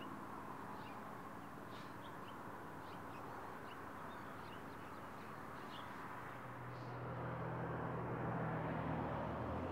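Outdoor ambience: a steady background hiss with scattered short bird chirps. About two-thirds of the way through, a low steady hum swells in and stays.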